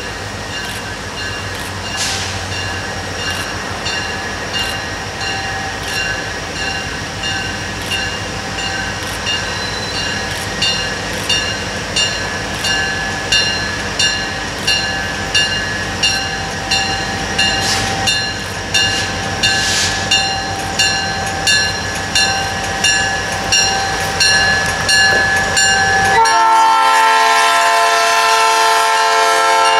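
A freight train's diesel locomotives roll past, their wheels clicking in a steady rhythm over the rail joints as they draw level. About 26 seconds in, a locomotive air horn sounds loud as a chord of several notes and holds on.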